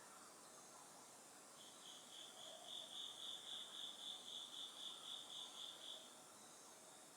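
An autumn insect singing a faint, high-pitched pulsed trill of about four pulses a second, starting about one and a half seconds in and stopping about a second before the end, over faint background hiss.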